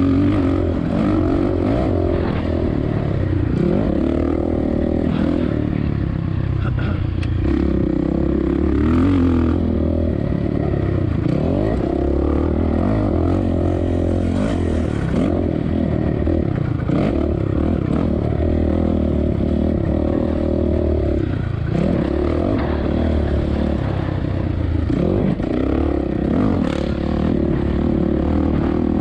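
2007 Suzuki RM-Z450's four-stroke single-cylinder engine being ridden hard, its pitch rising and falling over and over as the throttle is worked, with occasional clattering from the bike.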